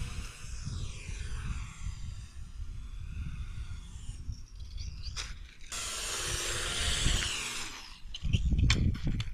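Electric motor and propeller of an RC model airplane whining in flight, the pitch sliding down over the first few seconds, then louder again for about two seconds from about six seconds in as it passes closer. A low rumble runs underneath.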